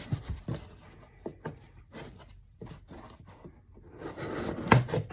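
A cardboard box being worked open by hand with a small opener: scattered taps, clicks and scraping, with a louder stretch of rustling and scraping about four seconds in.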